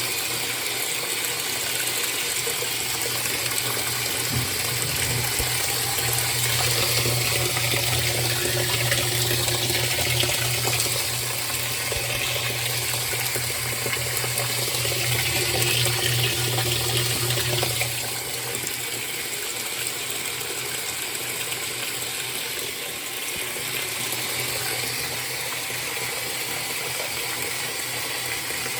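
2007 Frigidaire washing machine filling with water: a steady rush of water, with a low hum that stops about 18 seconds in.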